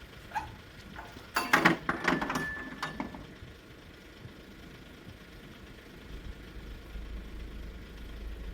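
A quick run of hard knocks and clatter lasting about two seconds, followed by a low steady rumble that starts about six seconds in.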